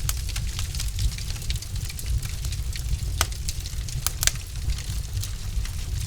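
Wood fire burning in a fireplace: a steady low rumble of the flames with frequent sharp crackles and pops from the logs, the loudest pops about three and four seconds in.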